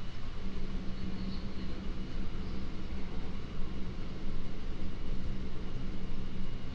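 Kintetsu 3200-series electric train running between stations, heard from inside the passenger car: a steady rumble of wheels on rail under a continuous motor hum.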